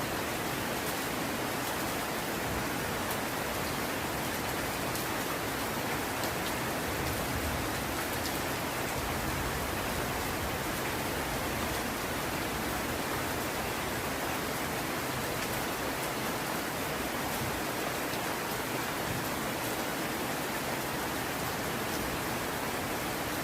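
Heavy rain falling steadily, an even wash of sound with scattered drop ticks.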